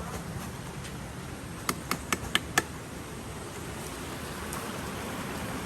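Steady hiss of rain and running river water, with five quick sharp clicks about two seconds in.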